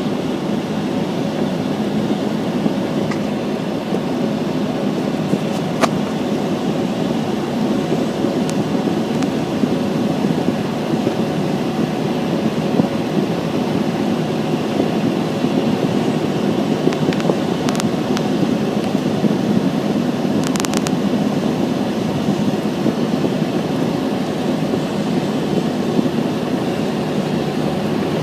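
Steady low rumble of a car driving, with a few faint clicks along the way.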